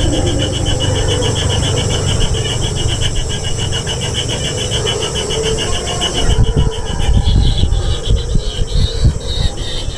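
Kingfisher nestlings in the nest making a rapid rasping, pulsed begging buzz, about ten pulses a second, that stops abruptly about six seconds in; then a run of low thumps and scuffling as the chicks jostle.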